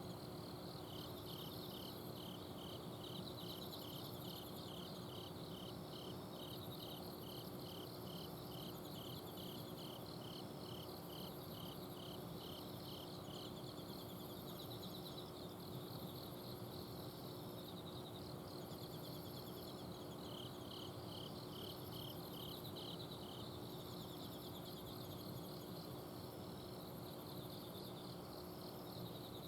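Several autumn crickets singing at night, one giving a run of evenly spaced chirps that stops about halfway and returns briefly later, over continuous higher trilling from others. A steady low hum from an air conditioner's outdoor unit runs underneath.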